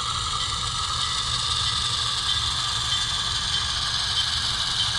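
Diesel engine sound of an HO-scale GE 44-ton switcher locomotive, played by the model's sound decoder. It runs steadily at a low idle with no change in pitch.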